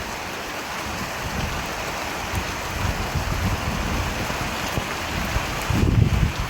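Steady rainfall hissing evenly, with a low rumble of thunder swelling briefly near the end.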